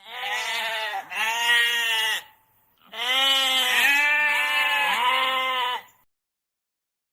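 Goat bleating: two long, wavering calls, the first about two seconds long and the second about three, with a short pause between.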